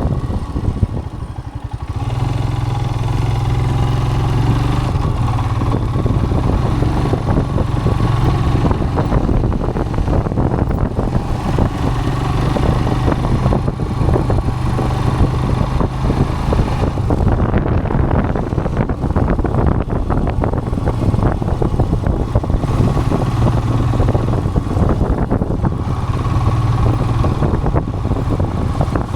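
Royal Enfield Himalayan's single-cylinder engine running steadily while riding. It dips briefly about a second in, then holds an even drone.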